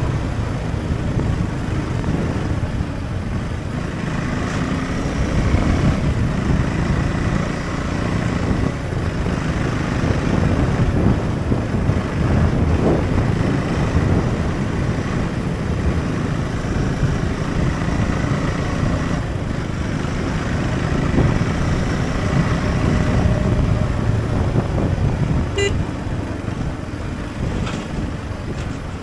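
Husqvarna Svartpilen 401's single-cylinder engine running steadily on the move, mixed with wind and road noise.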